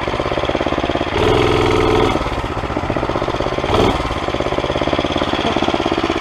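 Murray mini bike's single-cylinder Tecumseh engine running with its freshly cleaned carburetor, a steady rapid firing pulse that grows louder for about a second near the start, with a brief louder blip in the middle.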